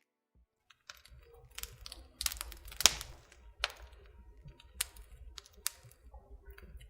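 Handling noise: irregular light clicks and taps over a faint low rumble, starting about a second in.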